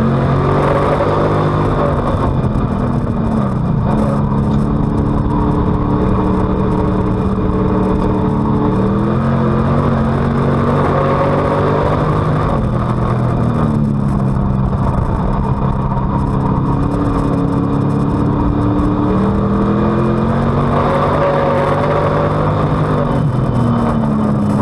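Street-stock race car's V8 engine heard from on board, its revs falling and climbing again several times as the driver lifts and gets back on the throttle through the corners and down the straights, over a constant loud roar.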